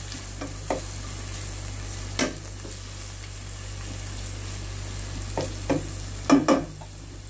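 Garlic, onion and spring onion sizzling in hot olive oil in a nonstick pan as a wooden spatula stirs them. A few scrapes and knocks of the spatula against the pan break through, the loudest a little after six seconds in.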